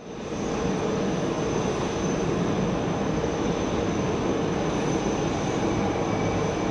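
Jet airliner engines running, a steady noise with a thin high-pitched whine held through it.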